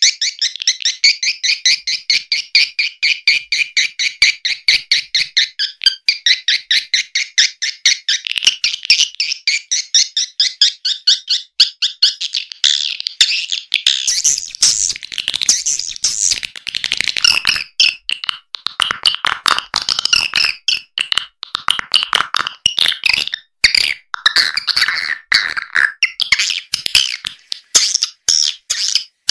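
Recorded edible-nest swiftlet calls: a fast, rhythmic train of high twittering chirps, growing denser and lower-reaching about halfway through. It is a swiftlet-house lure call, made to be played through tweeters to draw swiftlets in to roost and nest.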